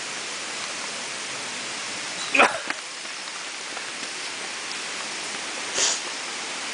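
Steady rushing of a waterfall's falling water. A sharp, loud sound breaks through about two and a half seconds in, and a short hiss comes near the end.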